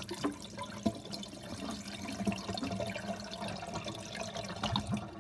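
Water running and dripping through a miniature Eldro Silenta toilet during a flush fed by a watering pot, with scattered small splashes. It stops suddenly near the end.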